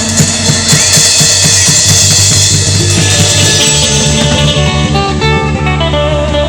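Live band playing an instrumental passage on guitar, bass and drum kit, with quick, even drum strokes and a cymbal wash in the first half. The bass moves to a lower note about halfway through.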